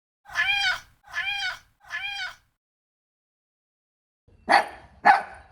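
A cat meowing three times, each meow rising and then falling in pitch, followed after a pause by two short, sharper and louder calls near the end.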